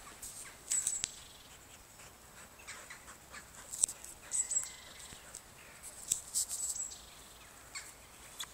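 Small birds chirping: short, very high-pitched calls in brief clusters about a second in, around four seconds in and around six seconds in, over faint outdoor background.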